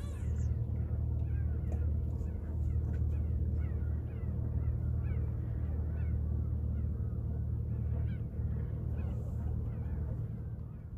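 Birds calling over and over, many short rising-and-falling calls in quick succession, over a steady low rumble.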